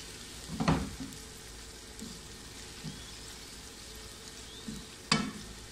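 Chopped okra frying in oil in a non-stick pan with a steady sizzle. A wooden spatula stirs it, with scraping knocks about a second in and near the end, and a few softer ones between.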